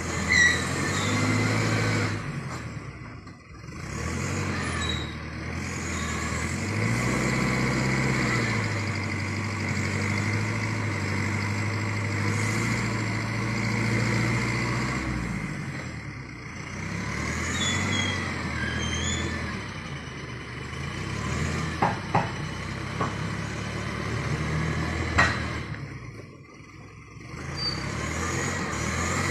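Engine of a vehicle hauling oil palm fruit, running steadily under load with its pitch rising and falling. The engine sound drops away sharply twice, early and near the end, and a few sharp knocks come about three-quarters of the way through.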